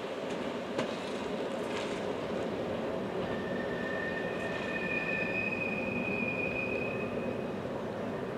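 A train running on the rails with a steady rumble and a few clicks from the wheels in the first two seconds. From about three seconds in, the wheels squeal with two high, steady tones overlapping, fading near the end.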